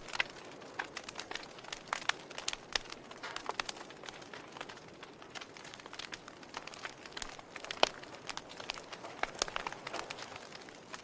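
Fire crackling, with irregular sharp pops and snaps over a soft hiss; one louder pop about eight seconds in.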